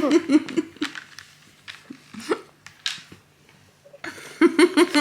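A toddler's high voice in short bursts of giggling and babble, with a quiet stretch in the middle broken by a few small knocks.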